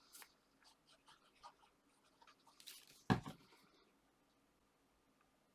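Card stock being handled and pressed into place on a tabletop: small rustles and light taps, with one short, loud thump about three seconds in.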